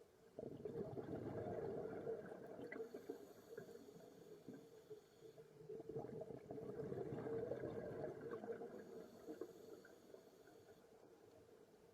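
Faint underwater bubbling and rumbling that swells up twice, each time for about three seconds.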